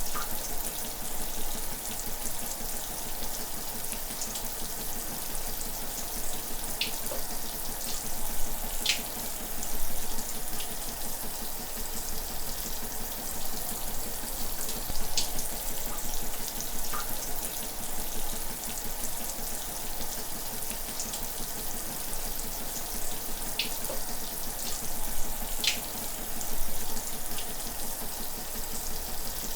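Shower running steadily: an even hiss of water falling, with scattered small splashes and drips.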